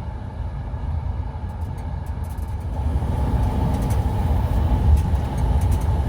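Passenger train running on the rails, heard from inside the carriage: a steady low rumble with a faint hum and a few light clicks, growing a little louder about halfway through.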